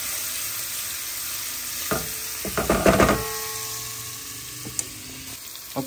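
Sofrito frying in oil in a metal pot, sizzling steadily as it is stirred, the sizzle growing quieter toward the end. About two seconds in there is a short cluster of metal clanks with a ringing tail.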